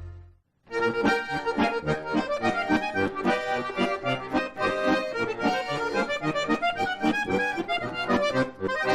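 Accordion playing a brisk, rhythmic instrumental introduction to a humorous folk-style song. It starts abruptly after a brief silence about half a second in.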